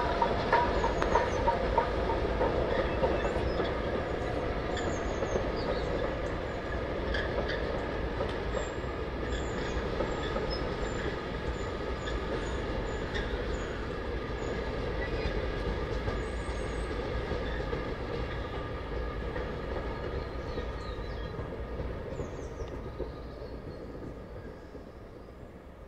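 Train's wheels rolling on the rails, clicking over rail joints in the first couple of seconds, with a thin steady wheel squeal; the sound fades steadily over the last third as the train moves away.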